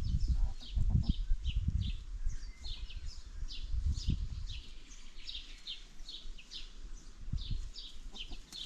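Small birds chirping: many short, falling chirps, about three a second and overlapping, over a low, uneven rumbling noise.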